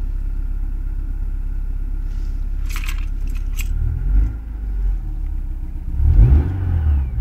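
Ford Sierra's 2.0 DOHC four-cylinder idling steadily around 1000 rpm as it warms up after a cold start. A few sharp rattling clicks come about three seconds in, and the low engine sound swells louder twice in the second half.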